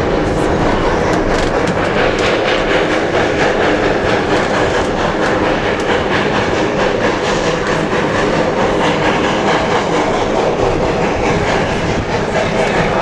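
Black Hills Central Railroad's 1880 Train rolling steadily along the track, its wheels clattering over the rails in a constant run of irregular clicks.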